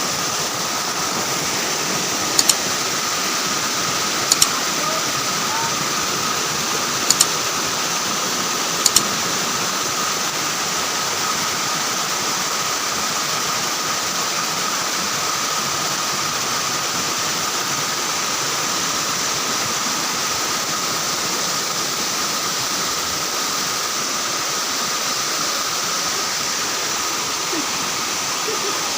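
Waterfall pouring steadily, with four short sharp double clicks in the first nine seconds or so.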